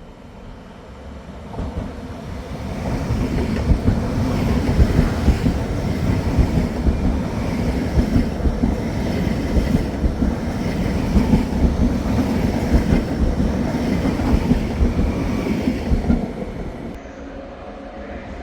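Train passing through a station, its wheels clacking over the rail joints in a steady run of sharp knocks; the rumble builds up about two seconds in and dies away near the end.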